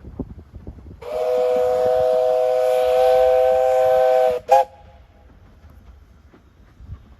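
Steam locomotive whistle sounding several notes at once as a chord: one long blast of about three seconds, then a short toot. A 15-inch gauge engine giving a warning.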